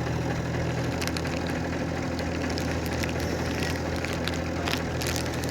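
Heavy diesel engine idling steadily, with scattered short clicks and clatter starting about a second in and coming more often near the end.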